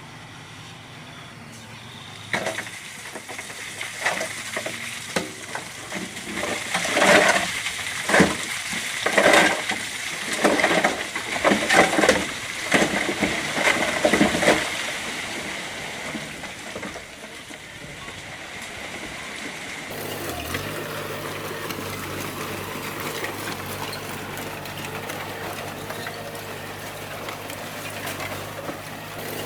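Bulldozer at work: a run of irregular clattering, like stone and rubble being pushed, loudest in the middle. Then the dozer's diesel engine drones steadily from about two-thirds in.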